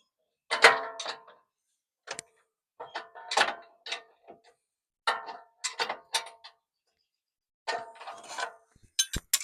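Wrench clinking and scraping against the steel bumper's mounting bolts and nuts in about half a dozen short bursts of metallic ringing, with a few sharp clicks near the end.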